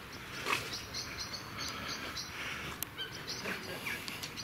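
Birds chirping, scattered short calls over a low steady background.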